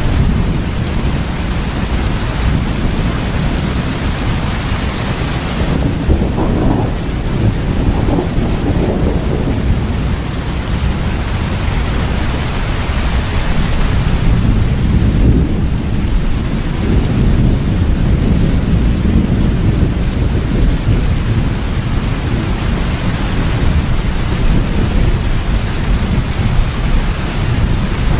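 Steady heavy rain with a deep rolling rumble of thunder underneath, which swells twice.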